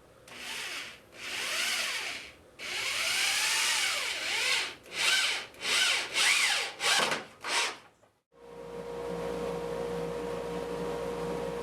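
Cordless drill driving screws through pilot holes into framing-lumber cross braces: a series of trigger pulls, the motor's whine rising and falling with each. Three longer runs come first, then several quick short bursts as the screws seat. After about 8 seconds a steady motor hum takes over.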